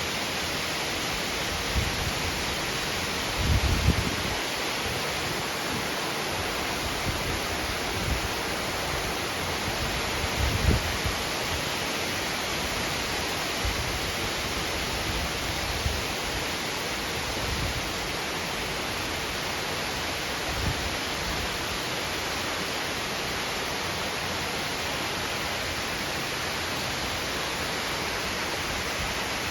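Heavy rain pouring down in a steady downpour, with a few short low thuds mixed in, loudest about 4 and 11 seconds in.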